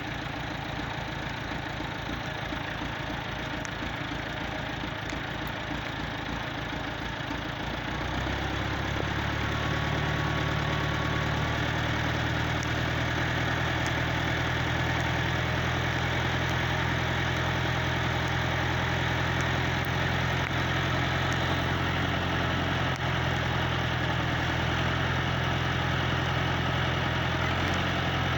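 Tractor engine running, then revving up about eight seconds in and holding steady at higher speed, driving a PTO post-hole auger.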